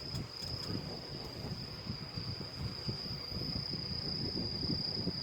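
Steady high-pitched insect trill, like crickets, over faint low rustling.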